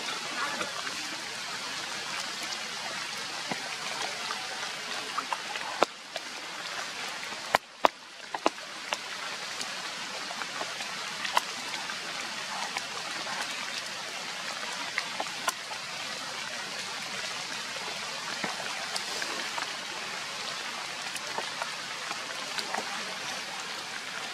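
Steady rain falling: an even hiss with scattered sharp ticks of drops landing close by.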